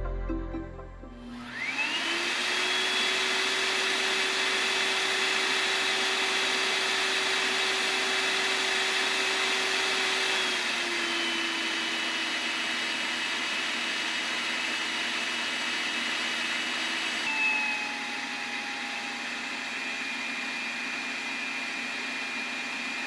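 Excel ThinAir electric hand dryer starting up and blowing steadily, its motor whine rising as it spins up. The speed is stepped down twice, about ten seconds in and again about seventeen seconds in, each time to a lower whine, and the second step is a little quieter: the dryer switched from its high to its medium and then its low setting.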